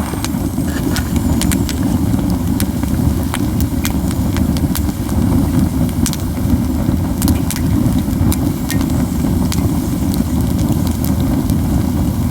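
Pine cones burning in a campfire: a steady low rumble of flame under frequent sharp crackles and pops.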